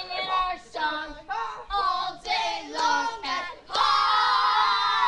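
A high, child-like voice singing short syllables that slide up and down in pitch, then holding one long note about four seconds in.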